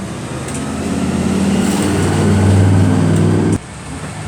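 A car's engine running as it drives past, growing louder for a few seconds, then cutting off suddenly about three and a half seconds in.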